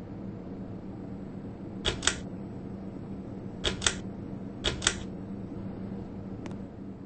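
Six's Fan Co. Endeavor ceiling fan running with a steady low hum. Three sharp double clicks come about two, four and five seconds in.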